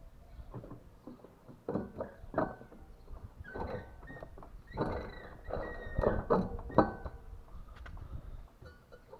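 Irregular knocks and clunks, with a few short thin ringing tones, from a washing machine being handled and worked on.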